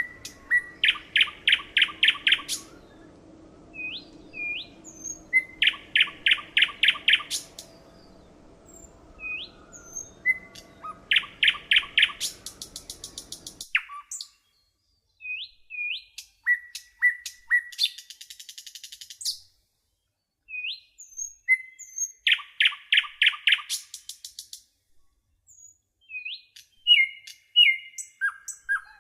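A bird singing and calling in repeated phrases. Each phrase has a few short rising chirps followed by a fast run of sharp notes, about six a second, and the phrases come every few seconds.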